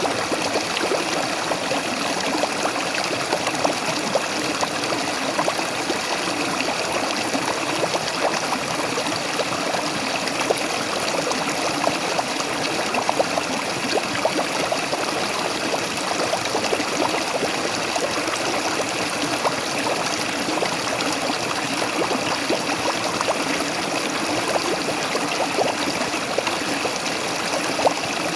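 Waterfall splashing and rushing steadily, with many small splashes and trickles throughout.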